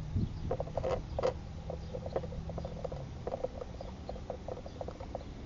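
Light, irregular clicks and taps of the plastic engine cover and its fasteners being fitted by hand, with two sharper knocks about a second in, over a low steady hum that fades out about three seconds in.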